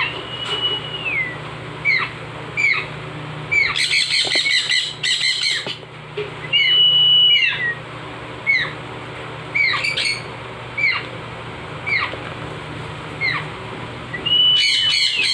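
Baby macaw begging for food while being hand-fed: short falling chirps repeat about every three-quarters of a second, with a few longer steady whistles. Harsh squawks come around four to five seconds in and again near the end.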